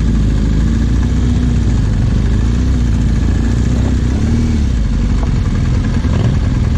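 Trail motorcycle engine running while riding, its pitch rising and falling gently with the throttle.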